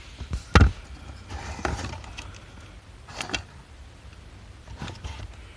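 A few separate sharp clicks and knocks from handling the mechanism of a small vintage cassette tape recorder, over a low steady hum; the loudest click comes about half a second in.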